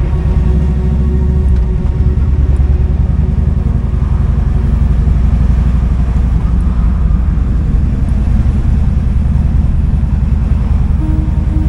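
Kawasaki Vulcan 2000's 2,053 cc V-twin engine running steadily at low revs, a low, even pulsing with no revving.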